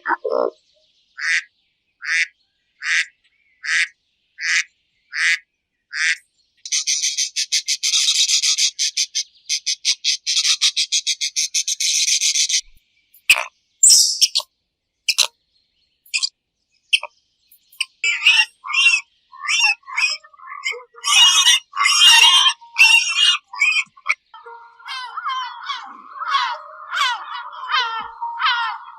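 A run of different high-pitched animal calls: about seven evenly spaced short chirps, then a fast continuous trill for several seconds, then scattered chirps leading into busy bird-like chirping and warbling song near the end.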